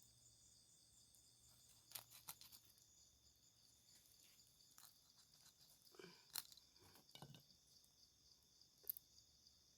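Faint, steady high-pitched insect chorus, with a few scattered sharp clicks and crackles from handling nearby.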